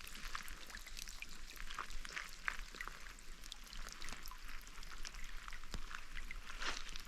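Rain falling, with many separate drops striking at irregular moments over a steady hiss.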